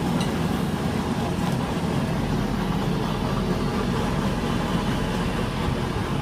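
Steady low rumble of a train running at the station, with no change in level.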